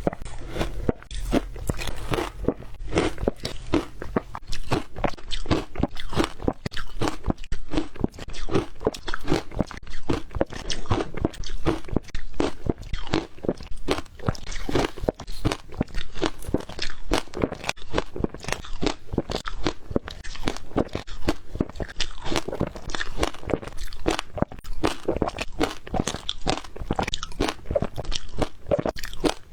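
Ice cubes being bitten and chewed close to the microphone: a steady run of rapid, crunching cracks as the ice breaks between the teeth.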